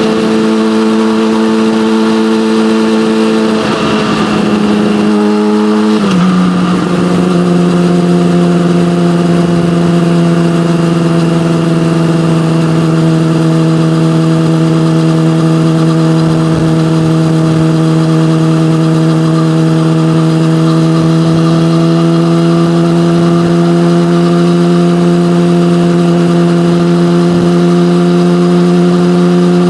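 Yamaha motorcycle with an SC-Project aftermarket exhaust, running at a steady engine speed. About four seconds in the note wavers and then drops to a lower pitch as the rider shifts up a gear. It holds steady after that and climbs slightly near the end.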